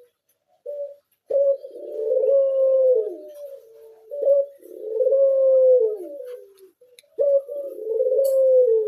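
Pied ('blorok') Barbary dove cooing: a short note, then three long rolling coos in a row, each sliding down in pitch at its end.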